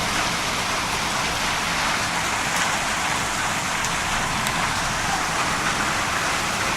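Heavy storm rain pouring down steadily, a dense even hiss with a couple of faint sharp ticks.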